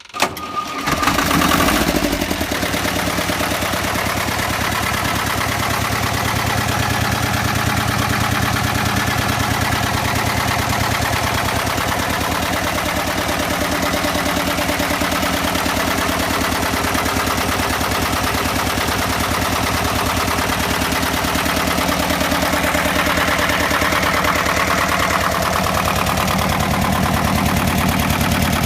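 BMW D35 marine diesel engine starting from cold: a very brief crank, it catches almost at once and runs louder for a second or so, then settles into a steady idle.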